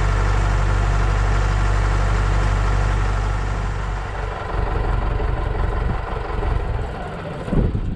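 Case 680B backhoe engine idling steadily. About four seconds in, the even hum gives way to an uneven, fluctuating rumble.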